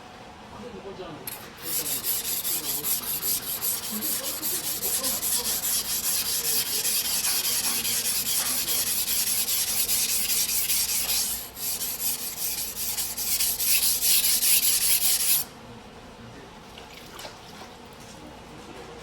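Single-bevel sujihiki steel blade being rubbed back and forth on a whetstone in rapid strokes, a gritty scraping hiss that runs for about fourteen seconds with a brief break partway through, then stops.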